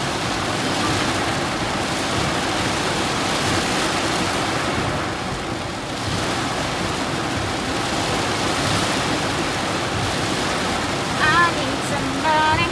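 Heavy rain pelting a car's windshield and roof, heard from inside the car as a steady rushing hiss. Near the end a voice briefly cuts in twice.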